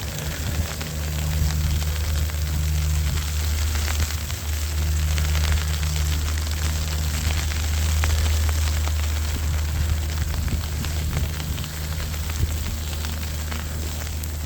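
Storm wind buffeting the microphone: a steady low rumble with fine crackling over it.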